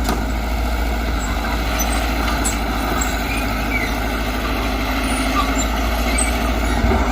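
Heavy diesel earthmoving machinery running steadily: a low, continuous engine drone with little change in level.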